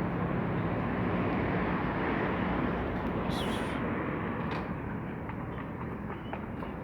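Street traffic noise: a steady rumble and hiss of a passing vehicle that slowly fades, with one brief high squeak about three seconds in.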